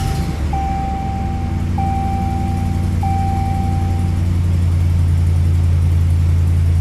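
RAM 2500 pickup engine idling just after a cold start, running steadily with a clacking that is put down to an exhaust leak. A dashboard warning chime dings several times at an even pace, stopping about four seconds in.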